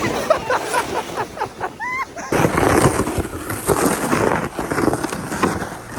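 A few short shouts, then from about two seconds in a loud rushing noise like wind buffeting the microphone, which stops abruptly at the end.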